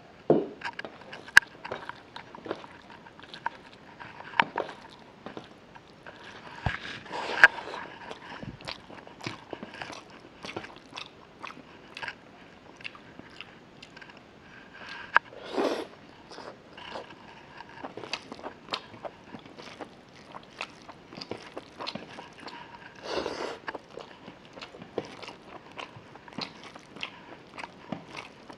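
Close-up chewing and biting of rice and chicken leg curry eaten by hand: wet mouth clicks and smacks throughout, with a few louder smacks now and then. Fingers mix rice on a steel plate between bites.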